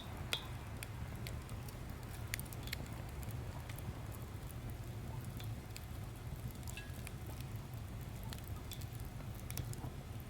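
Firewood burning in a small fire pit, crackling with irregular sharp pops over a steady low rumble.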